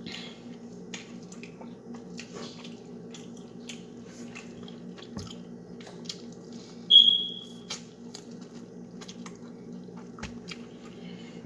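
Close-up eating sounds of crab legs: wet chewing, sucking and small clicks and cracks of shell, over a steady low hum. About seven seconds in, one short high-pitched squeak fades out.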